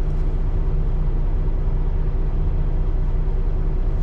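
Steady drone of a Peterbilt 579's Cummins ISX15 diesel with road noise, heard from inside the cab while the truck is driving.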